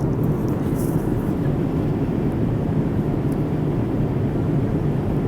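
Steady low roar of a Boeing 787 airliner cabin in cruise flight: engine and airflow noise, even and unbroken, with a few faint clicks early on.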